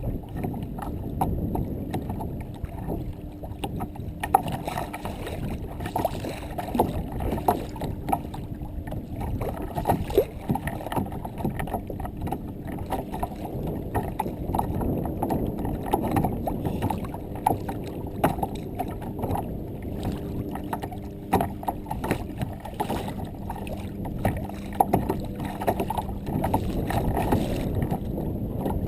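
Water sloshing against a fishing kayak's hull as it moves, with scattered small knocks.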